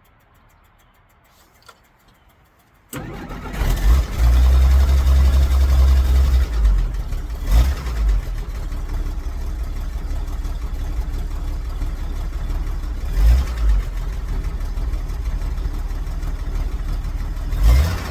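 1963 Jeep Gladiator engine catching suddenly about three seconds in, running fast and loud for a few seconds, then settling into a steady idle with three brief throttle blips. It is a hard-starting engine.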